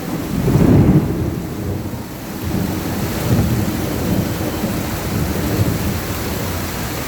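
Heavy rain pouring down, with a low rumbling that swells about a second in and then eases.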